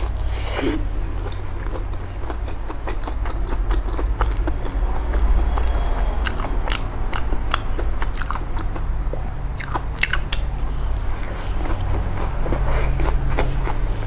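Close-miked biting and chewing of crispy fried food: many small crunches and crackles throughout, heavier around the middle and near the end, over a steady low hum.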